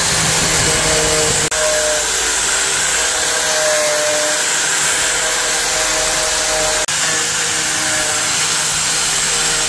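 A power tool running steadily, with two brief breaks in the sound, about a second and a half in and near seven seconds in.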